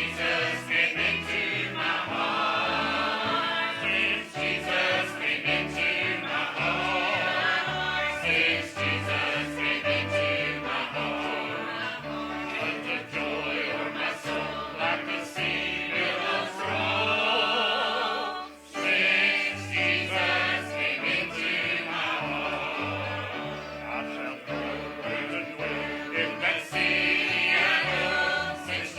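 Church choir singing with instrumental accompaniment and a stepping bass line, with a brief break in the music about two-thirds of the way through.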